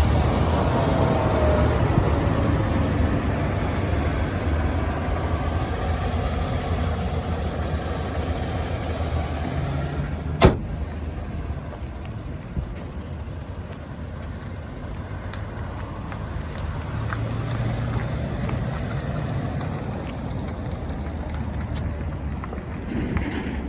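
GMC Sierra 3500 HD pickup's engine idling steadily just after starting, with one sharp click about ten seconds in.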